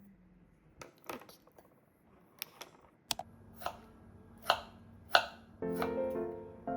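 Kitchen knife chopping on a cutting board in slow, even strokes, about one every 0.7 seconds. Soft background music comes in about halfway and fills out near the end.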